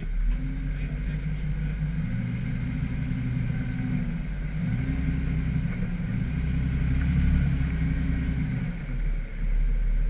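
Off-road 4x4 engine running under load, its pitch rising and falling as the throttle changes, louder for a few seconds past the middle.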